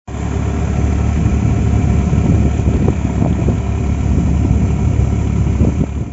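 Tractor diesel engine running steadily and loudly.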